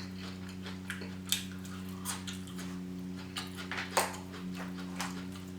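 Close-miked eating sounds: scattered soft mouth clicks and smacks of chewing, the clearest about a second and a third in and four seconds in, over a steady low hum.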